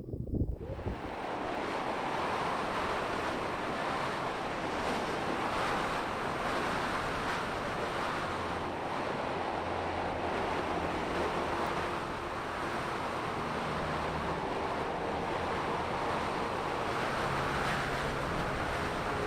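Strong wind of about 30 to 40 km/h rushing over the microphone: a steady hiss that swells and eases every few seconds.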